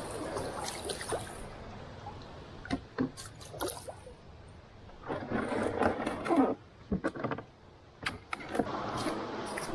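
Water splashing and trickling around a canoe, with a few sharp knocks against the hull and a louder stretch of sloshing a little past the middle.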